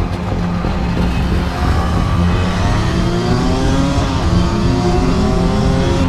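Yamaha DT125R's 125 cc single-cylinder two-stroke engine accelerating under load, its pitch rising from about a second and a half in and climbing again after a brief dip near the middle.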